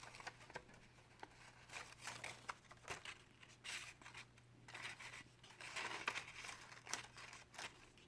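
Craft paper rustling and crinkling as it is handled and pressed together, with scattered light clicks and taps.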